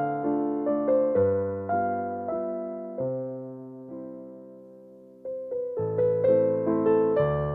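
Background piano music, a slow, gentle melody. About three seconds in, a chord is held and fades away, and the playing starts again suddenly about two seconds later.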